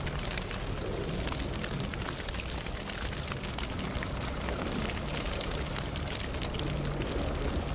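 Campfire burning: wood crackling with many small, irregular pops over a steady low rush of flames.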